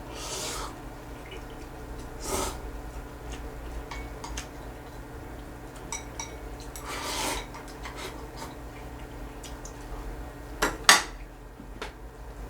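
Eating a bowl of noodles: utensils clinking against the bowl, with a few brief noisy eating sounds, and two sharp, loud clinks close together near the end.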